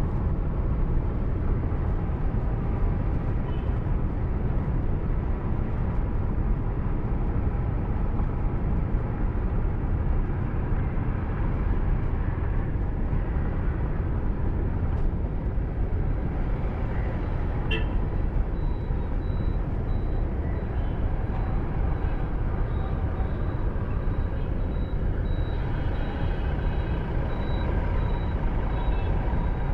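Steady road and engine rumble of a moving car, picked up by a dashcam inside it, with a single click about eighteen seconds in and a faint high pulsing tone after that.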